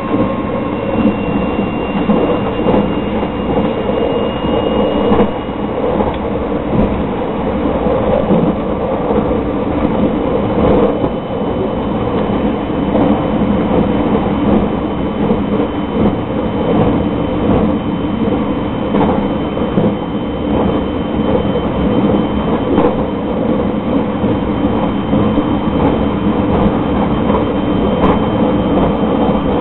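Cabin noise inside a JR 681/683-series electric limited express train running along the line: a steady rumble of wheels on rail, with scattered clicks and a thin, steady high whine.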